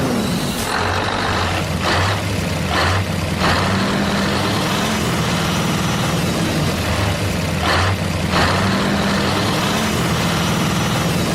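A heavy engine running steadily, with several short sharp hisses like air-brake releases about two, three, three and a half and eight seconds in.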